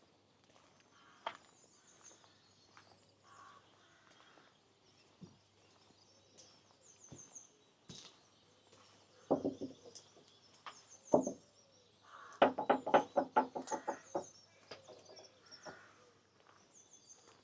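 Loud bird calls: two single harsh calls a couple of seconds apart, then a quick run of about ten calls. Small birds twitter faintly high above throughout.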